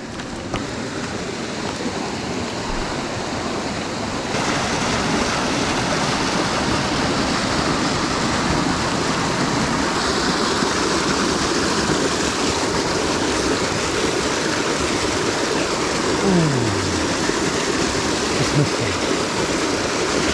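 Rushing water of a fast mountain stream tumbling over rocks: a steady, even rush that gets louder about four seconds in.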